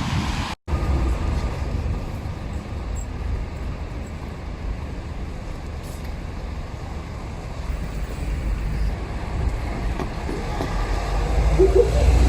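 Train running with a steady low rumble, growing louder near the end, after a brief dropout about half a second in.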